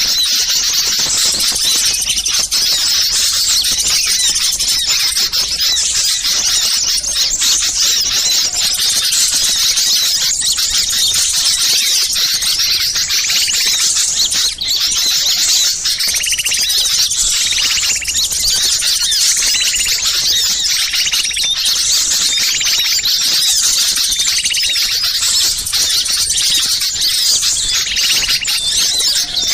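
Dense, noisy chorus of many small songbirds calling excitedly at once: packed high-pitched chirps and trills with no break. About halfway through, a repeated lower scolding call joins in. This is an agitated flock recording used as a lure to bring wild birds down.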